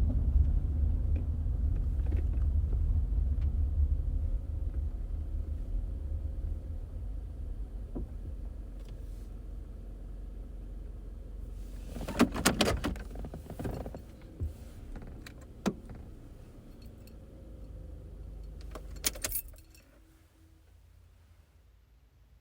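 Low car rumble from inside the cabin dies away as the car comes to a stop. About halfway through, keys jangle, followed by a few clicks. Near the end there is another short jingle of keys, and the low running sound cuts off at that moment, as an engine being switched off with the ignition key would.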